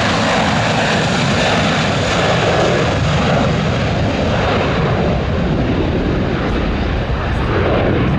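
Boeing 737 jet airliner at take-off thrust: its turbofan engines make a loud, steady rush of jet noise.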